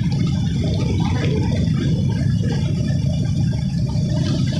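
Motorcycle being ridden: a steady low engine rumble mixed with wind and road noise on the microphone.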